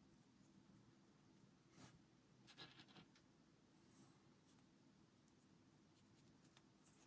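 Faint clicking and rustling of LEGO pieces being handled and pressed together, over near silence, with a small cluster of clicks about two and a half seconds in.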